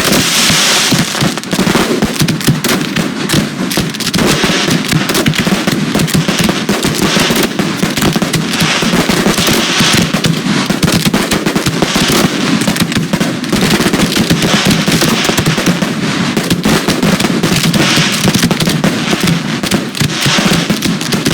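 Professional display fireworks going off in a dense, unbroken barrage, many shell bursts and reports a second overlapping with no pause: the finale of the show.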